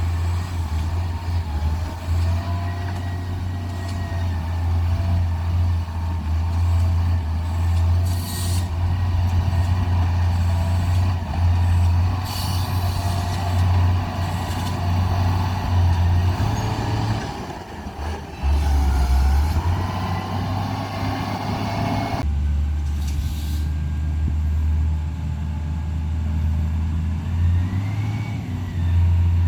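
Heavy diesel truck engine labouring at low revs, the pitch rising and falling as the driver works the throttle, with a few short air-brake hisses.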